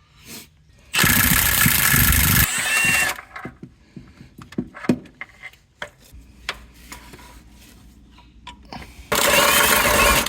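Impact wrench hammering on the transmission bell-housing bolts in two bursts, the first about two seconds long and the second about one second, each ending in a short whine of the motor. Light clinks of tools and sockets fall between the bursts.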